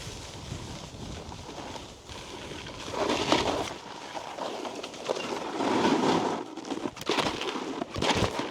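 Snowboard edges scraping and skidding over icy snow, swelling in two louder surges, with a couple of sharp knocks near the end.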